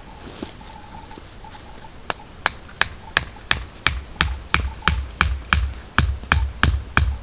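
A rapid, even series of sharp knocks with a short ringing edge, about three a second, starting about two seconds in and growing louder.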